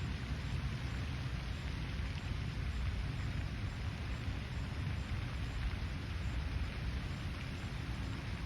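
Steady lakeside ambience at daybreak: an even hiss with a deep rumble underneath, and no distinct bird calls or other single sounds.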